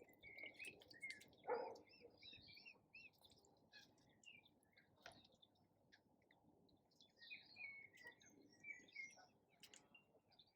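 Small birds chirping and twittering in quick, faint calls, with one louder, lower call about a second and a half in.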